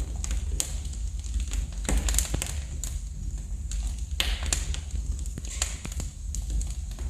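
Wood fire crackling in a fireplace: irregular sharp pops and snaps, a cluster about two seconds in and a loud pop about four seconds in, over a steady low rumble.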